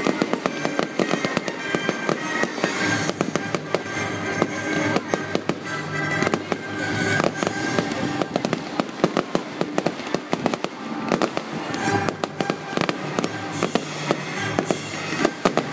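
Fireworks display: a dense run of rapid bangs and crackling, with music playing over loudspeakers underneath.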